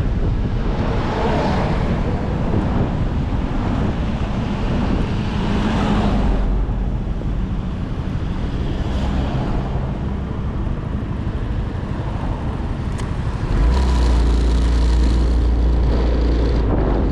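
Motorcycle riding in traffic: engine and road noise with wind buffeting the microphone. The low rumble grows louder about 13.5 seconds in and stays up.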